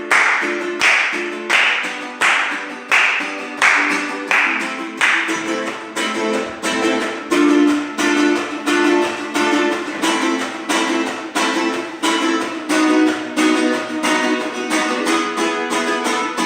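Guitar strummed in a steady rhythm as a song's instrumental introduction, with accented strokes that become busier and quicker about six seconds in.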